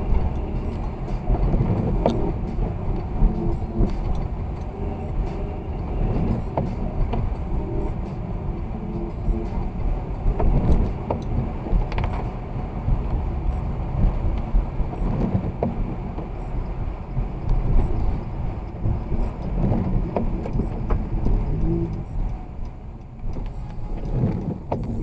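Car driving along, a steady low road and engine rumble that rises and falls slightly, with a few faint clicks and knocks.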